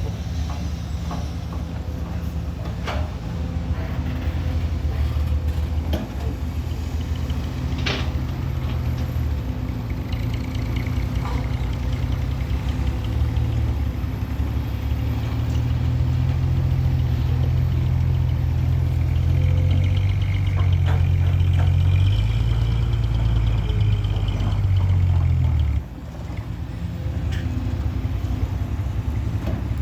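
A truck engine running steadily under way, getting louder over the middle of the stretch, then dropping off abruptly for a moment about 26 seconds in, as with a throttle lift or gear change, before it pulls again.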